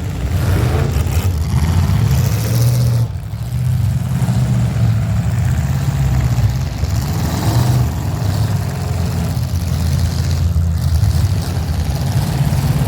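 Engines of derby vehicles running together, a steady loud drone with some revving.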